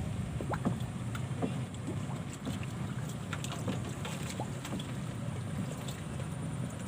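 Strong wind buffeting the microphone as a steady low rumble, with small scattered ticks and clicks above it.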